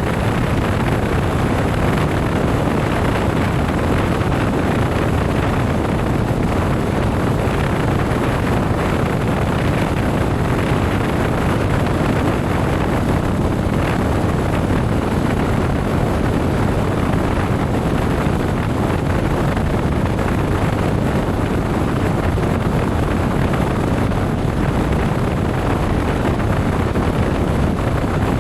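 Steady wind rush on the microphone mixed with the running noise of a motorcycle being ridden, unbroken throughout.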